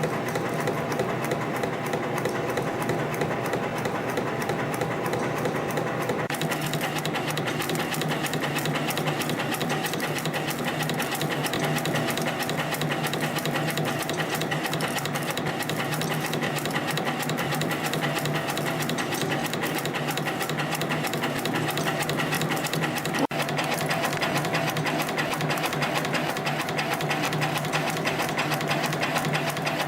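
CNC compression-spring coiling machine running, forming 0.6 mm wire into small springs with a rapid, steady mechanical clatter.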